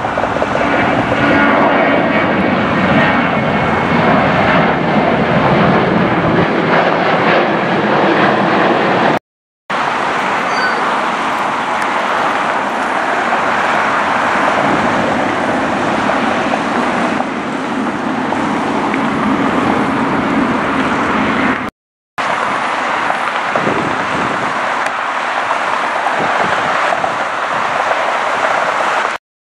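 Airliner engine noise: a steady loud rush in three stretches, each broken off by a brief silence at a cut.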